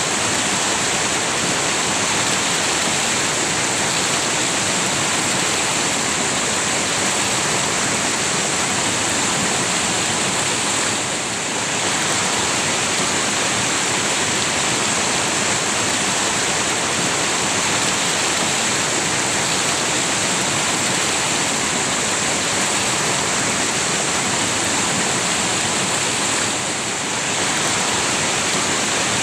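Village river flowing, a steady loud rush of water that eases off briefly twice.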